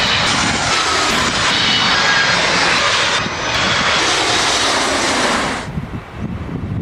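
Jet airliner passing low overhead, a loud engine rush with a whine in it, which drops away suddenly about five and a half seconds in, leaving a low rumble.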